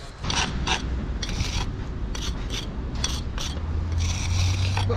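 Rough rasping scrape strokes, a dozen or so in quick succession, of a hard tool or brush worked against a hard surface. A low steady hum comes in about four seconds in.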